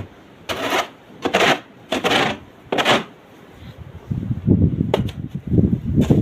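Footsteps crunching in snow, four steps at a walking pace, followed by a low rumble of wind on the microphone from about four seconds in.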